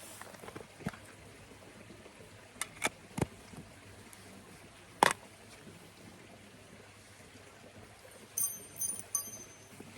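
Scattered sharp knocks and clicks, the loudest about five seconds in, then a short run of ringing metallic clinks near the end, over a faint steady hiss.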